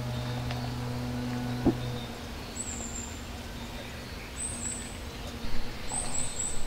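A small bird giving short, high, falling chirps, singly and then in quick runs of two or three toward the end. Under them is a steady low hum that stops about two seconds in, with a single click just before it ends.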